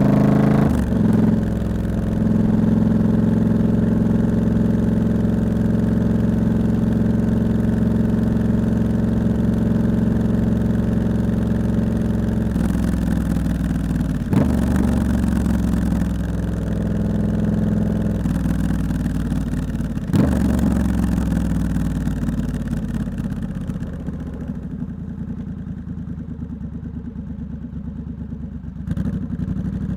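Triumph Scrambler 1200 X's parallel-twin engine through a loud aftermarket Hitchcox exhaust, heard from the rider's seat while riding. It runs steadily under way, with a few brief sharp breaks from gear changes or throttle blips. Toward the end it eases off and goes quieter, then picks up again.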